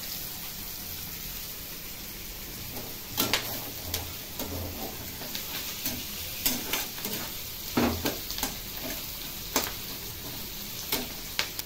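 Hot oil sizzling steadily under frying surmai (king mackerel) slices, then sliced onions frying in a wok while a metal spatula scrapes and knocks against the pan several times.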